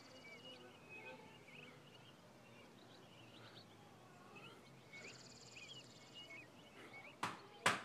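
Faint outdoor ambience of small birds chirping, with a high, rapid trill for a second or so past the middle. A couple of sharp knocks near the end.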